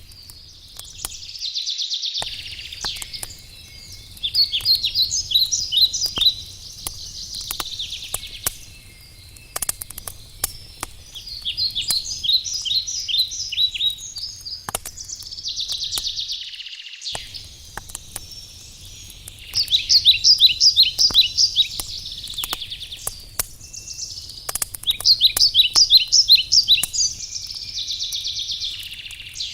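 Campfire crackling with scattered sharp pops while a songbird sings the same short phrase over and over, a rapid trill of high notes, every few seconds.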